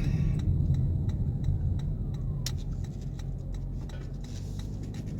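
Low steady vehicle rumble with a few faint clicks, a sharper click about two and a half seconds in.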